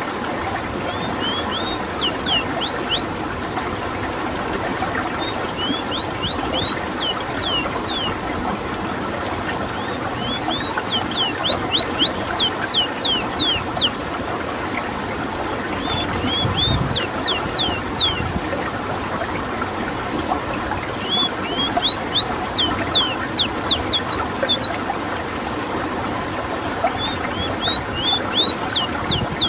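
Ruddy-breasted seedeater (Rowti) singing: about six short phrases, one every five seconds or so. Each phrase starts with a few rising notes and quickens into a run of sharp, high downward-sweeping whistles. A steady background hiss runs underneath.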